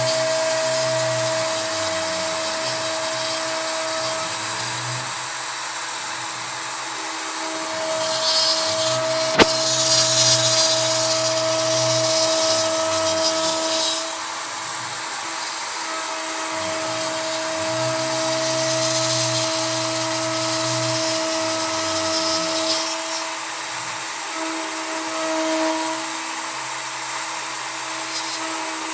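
CNC router at work: the spindle router runs at a steady high whine while a 3 mm end mill cuts pine. A low motor hum comes and goes every few seconds as the axes move, and a rough cutting hiss swells twice. There is one sharp click about nine seconds in.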